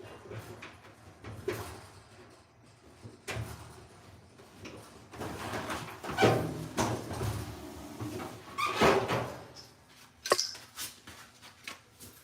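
Irregular handling noises of dryer parts being worked on: knocks, clicks and scraping, loudest about halfway through and again about three quarters through, then a few sharp clicks near the end.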